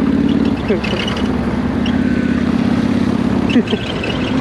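Motorcycle engine running steadily while riding over dirt, easing off briefly about half a second in and again near the end, with rattles from the bike over the rough ground.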